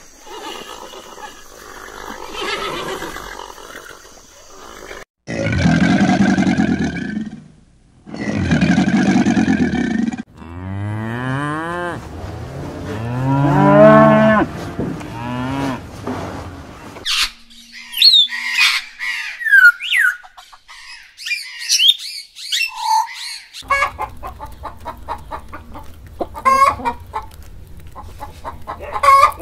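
A run of animal calls: two long, low calls followed by a longer one that rises and falls in pitch, then high chirping, then rapid clicking.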